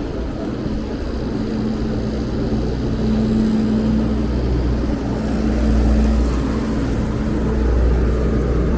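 Steady low rumble of motor traffic with a constant engine hum, slowly growing louder.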